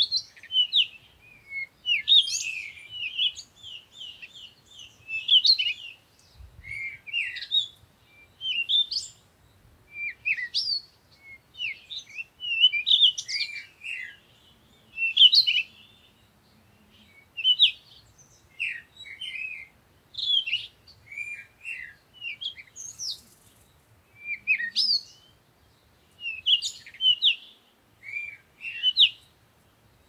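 Songbirds chirping in short, high-pitched phrases, a burst every second or two with brief pauses between.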